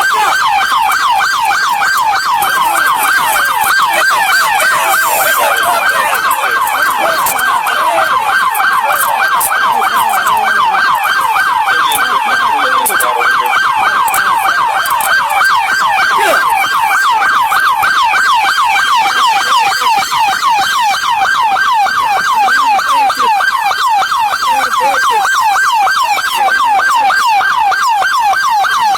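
Police car siren on its yelp setting: fast, repeating rising-and-falling wails, about four a second, loud and unbroken.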